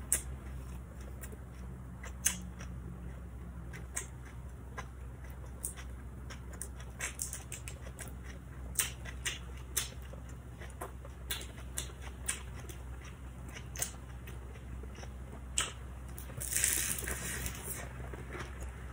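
Eating sounds of crisp fried spring rolls wrapped in lettuce being chewed: scattered soft crunches and mouth clicks, with a longer, louder crackle near the end. A steady low hum runs underneath.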